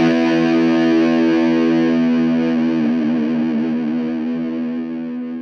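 Intro music: a single distorted electric guitar chord struck once and left to ring, slowly fading away.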